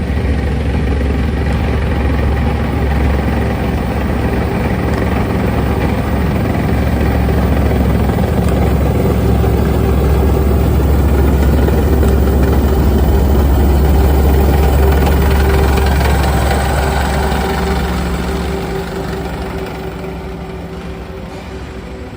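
Type 10 main battle tank's diesel engine running with a deep, steady rumble, growing slowly louder to a peak past the middle and fading over the last few seconds.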